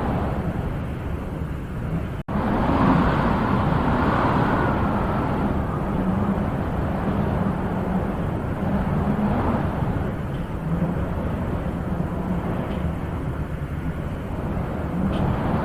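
Wind blowing in gusts, swelling and easing, with a sharp cutout for a split second about two seconds in.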